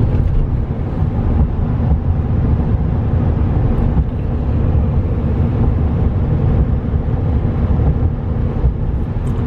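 Steady low rumble of road and drivetrain noise inside the cab of a 2015 GMC Sierra 3500HD pickup driving down the road.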